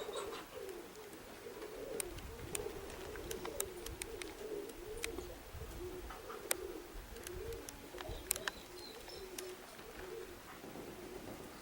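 A group of domestic racing pigeons cooing continuously, overlapping warbling coos, with scattered sharp clicks.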